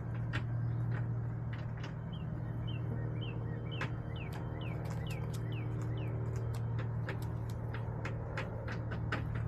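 A steady low hum, with a run of short, falling bird chirps about two a second and scattered sharp clicks.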